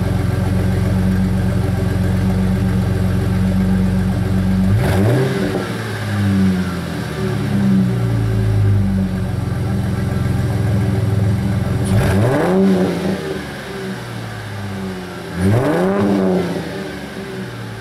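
2001 Ford Mustang's 3.8-litre V6 idling through a custom H-pipe and two Flowmaster 10 Series mufflers, blipped three times: the pitch rises sharply and falls back to idle about 5 seconds in, about 12 seconds in and about 15 seconds in.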